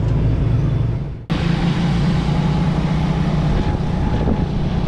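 Small motorcycle engine running steadily while riding, with wind rushing on the microphone. The sound cuts out for an instant about a second in, then resumes.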